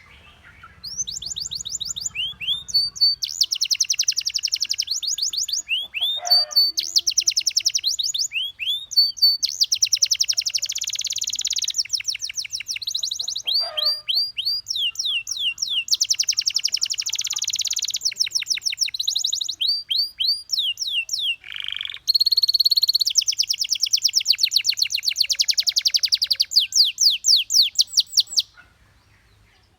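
Domestic canary singing: long fast trills of rapidly repeated high notes, switching from one trilled phrase to the next every second or two with brief gaps. The song stops shortly before the end.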